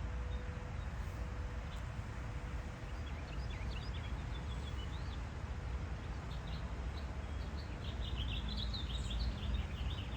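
Small birds chirping and twittering over a steady low rumble of outdoor background noise. The chirps start about three seconds in and grow busier near the end.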